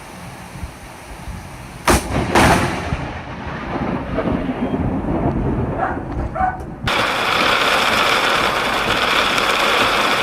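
Thunder from a close lightning strike: a sharp crack about two seconds in, a second crack just after, then a rumble. Near the end of the rumble a loud, steady hiss begins abruptly.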